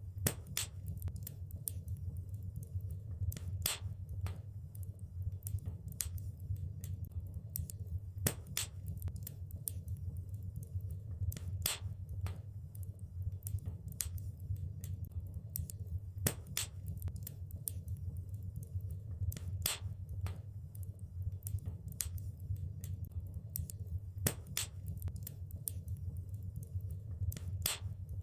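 Wood fire crackling in a fireplace: irregular sharp pops and snaps, several a second with a few louder ones, over a steady low rumble.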